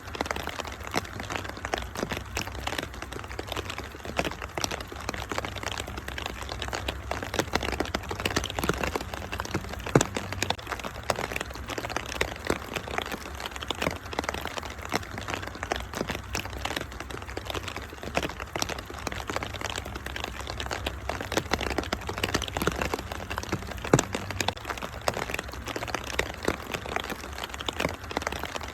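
Wood fire crackling and popping in a fireplace over a steady hiss of rain, with a low rumble beneath. Two pops stand out louder, about a third of the way in and again later.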